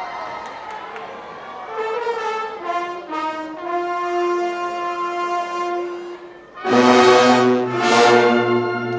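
Show-style marching band brass playing long held chords, the notes stacking up one after another. About seven seconds in, the full band comes in loud with a deep low bass note underneath.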